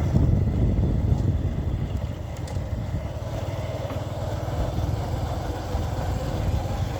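Motorcycle taxi running steadily along a road, its engine note under a constant low rumble of wind and road noise.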